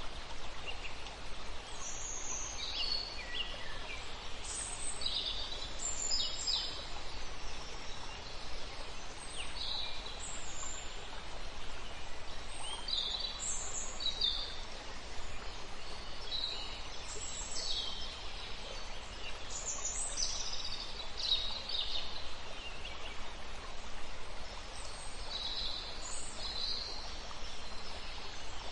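Small birds chirping in short, high calls every second or so over a steady hiss of background noise.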